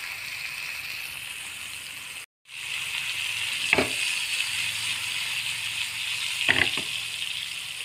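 Slices of ash gourd sizzling in oil on an iron tawa: a steady, even hiss that breaks off for a moment about two seconds in. Two short sharp clicks, one about halfway and one near the end.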